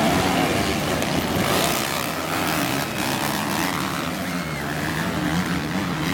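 Motocross dirt-bike engines running and revving, the engine pitch rising and falling throughout.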